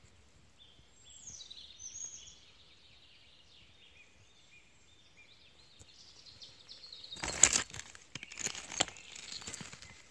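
A songbird singing a run of short, quick, high notes. About seven seconds in, a few seconds of loud rustling, crunching noise cover it, loudest near the start.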